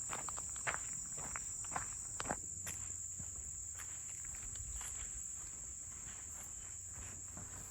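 Steady high-pitched insect chorus of the kind crickets make, with scattered light footsteps during the first few seconds.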